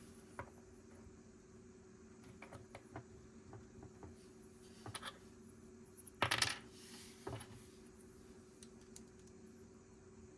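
Plastic Lego pieces clicking and clattering as they are handled during building, with scattered single clicks and a louder clatter about six seconds in.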